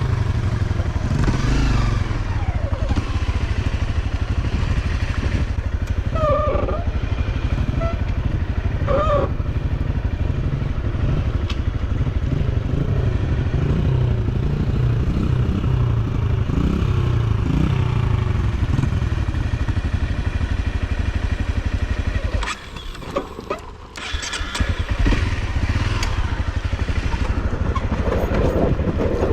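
Off-road motorcycle engine running under throttle, its pitch rising and falling as the revs change. About 22 seconds in the engine sound drops away for a couple of seconds, then picks back up.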